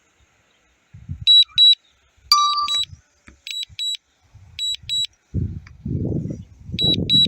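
Drone controller's warning beeps, repeating high double beeps about once a second, warning that the DJI Mavic Mini has lost its signal. Gusts of wind on the phone's microphone come in about two-thirds of the way through and grow loud.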